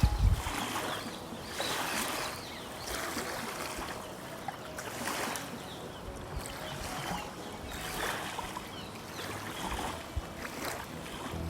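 River water splashing in repeated surges, roughly every one and a half to two seconds.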